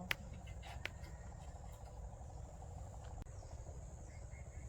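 Insects chirring in a steady high trill over a low rumble, with two sharp clicks in the first second.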